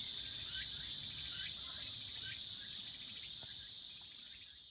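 Summer forest insect chorus: a dense, steady high-pitched drone, with a higher pulsing note repeating about once a second. Short bird chirps repeat every half second or so over it, and everything fades out near the end.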